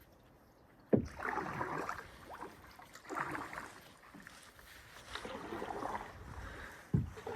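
Canoe paddles dipping and pulling through the water in repeated swishing strokes, with a hard knock about a second in and another near the end.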